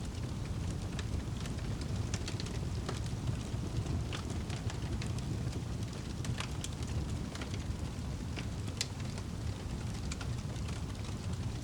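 Wood fire burning in a fireplace: a steady low rumble of flames with frequent small crackles and a few sharper pops.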